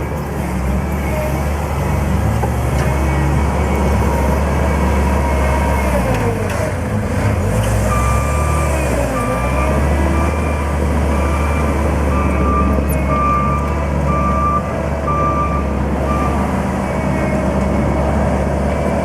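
JCB 205T tracked skid steer loader running, its engine note dipping briefly and recovering a few seconds in. Its reversing alarm then beeps about once a second for several seconds while the machine backs up.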